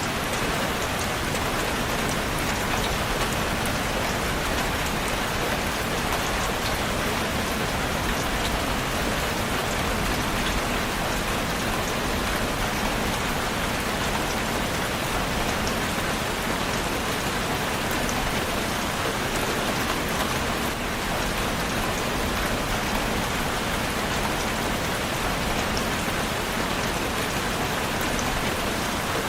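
Steady rain falling on a surface, a constant even hiss with scattered drop ticks.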